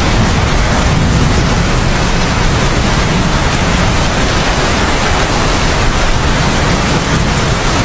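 Steady heavy rain, an even hiss with no thunder clap.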